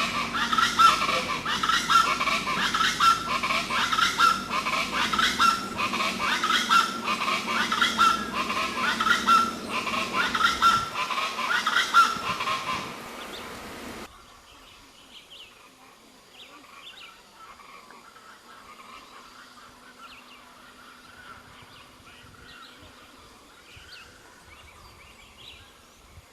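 Rufous-vented chachalacas (cocoricos) calling loudly, many calls repeated over and over for about thirteen seconds. The sound then cuts off abruptly, leaving only faint, scattered bird chirps.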